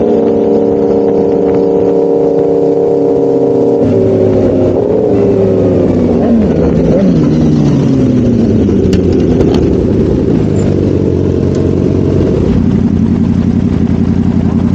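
1000cc motorcycle engine running at steady high revs, then easing off about four seconds in, its pitch falling in several glides as the bike slows, and settling into a lower, steady rumble near the end.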